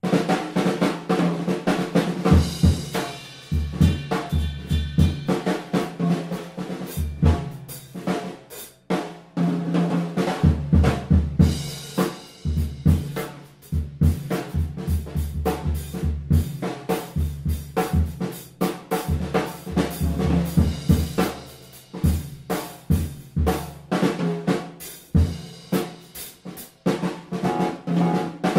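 Music with a drum kit to the fore: busy snare, bass drum and rolls over sustained bass and other instruments.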